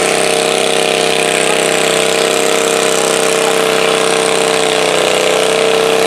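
Garden pulling tractor's engine running loud at a steady pitch.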